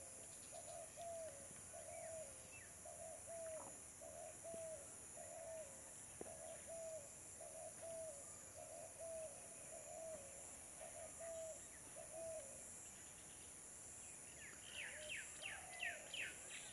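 A bird calls one short note over and over, steadily at a little under two a second, and stops about three-quarters of the way through. Near the end a quick run of about ten higher, falling chirps follows, with a faint steady hiss underneath.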